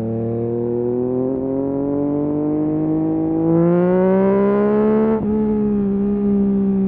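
Yamaha MT-09 SP's three-cylinder engine through a full Akrapovic race exhaust, accelerating with a steadily rising pitch and getting louder about three and a half seconds in. About five seconds in, a quick upshift drops the revs and the engine pulls on steadily.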